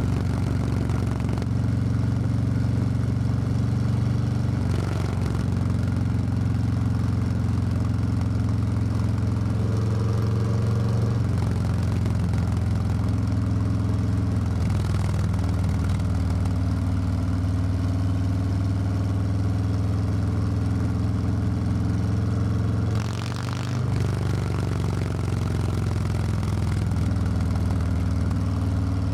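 Harley-Davidson Low Rider S V-twin engine running steadily while riding, heard from the rider's seat. The engine note shifts slightly a few times and dips briefly about three-quarters of the way through before picking up again.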